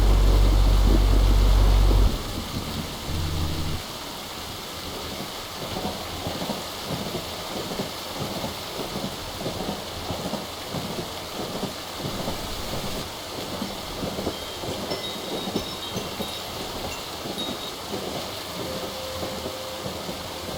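Recorded thunderstorm: a loud, deep rumble of thunder over rain that cuts off suddenly about two seconds in and fades out by about four seconds, followed by steady rain.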